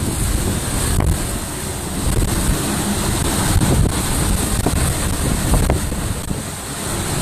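Hurricane eyewall wind buffeting the microphone with a steady, dense rumble, in winds of around 120 miles an hour. A few brief knocks are heard within it.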